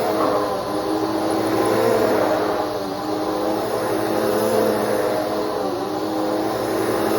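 Bissell PowerForce Helix 3313 bagless upright vacuum running steadily as it vacuums, its motor hum holding several steady tones over a rushing airflow hiss, the pitch wavering slightly as the load changes.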